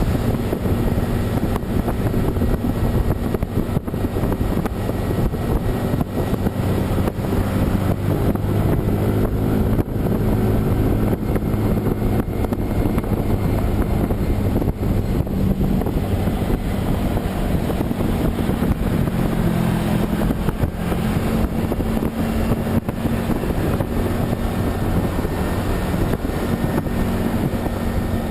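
Vehicle travelling on a highway: a steady engine drone with road and wind noise, the engine note drifting slowly up and down.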